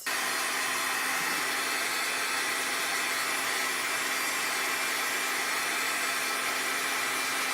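Electric hair dryer switched on and blowing steadily, a rush of air with a steady low motor hum underneath.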